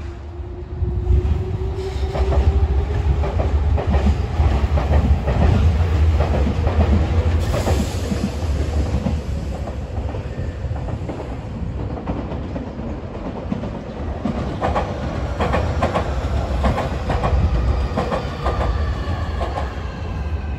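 Nankai electric train running on the tracks below, with a steady rumble and a cluster of wheels clacking over rail joints in the second half. A whine rises in pitch near the start.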